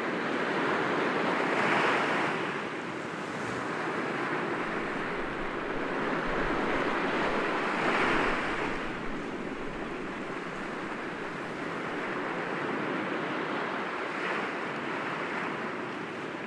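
Sea waves washing and breaking gently against rocks, a continuous surf wash that swells twice, about 2 and 8 seconds in, with a smaller surge near the end.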